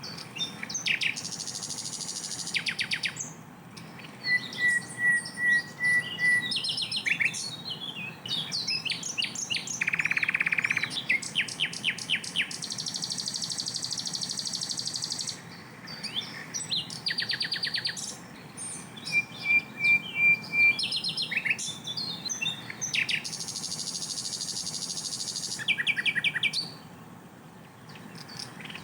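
Sikatan londo flycatcher singing a varied high-pitched song: fast rattling trills, buzzy hissing phrases and short runs of evenly repeated clear notes, in bursts with brief pauses between them.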